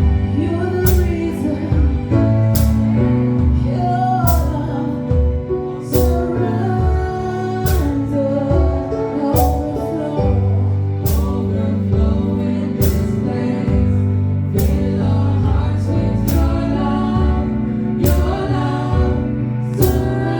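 Gospel singing with a live band: voices over a steady bass line and sustained chords, with a sharp percussion hit about every second and three-quarters marking the beat.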